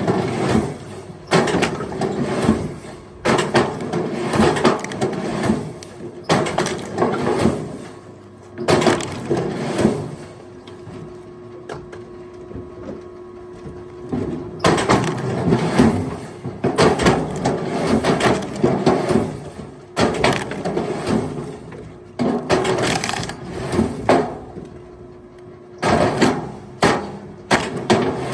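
Firewood logs knocking and clattering against one another in irregular bunches of sharp knocks, with quieter spells in between.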